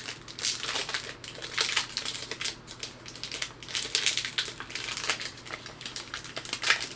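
Foil wrapper of a trading-card pack crinkling and tearing as it is ripped open by hand, an irregular run of crackling rustles.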